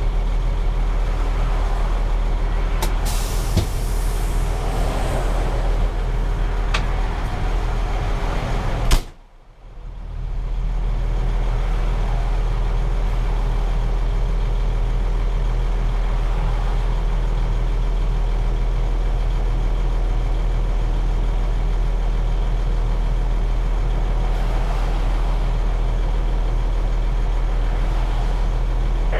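Cummins 6CTA 8.3 diesel of a 1993 KME Renegade fire engine running steadily at idle. There is a short high hiss about three seconds in, typical of air brakes. A sharp knock comes about nine seconds in, and the sound drops away for about a second after it.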